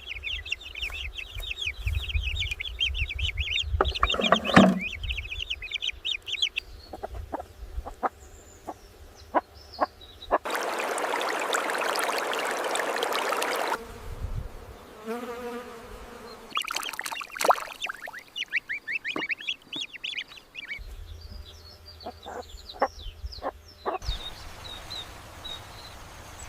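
Farmyard poultry sounds: rapid high chirping and clucking with scattered knocks and clicks, broken about halfway through by a few seconds of steady hiss.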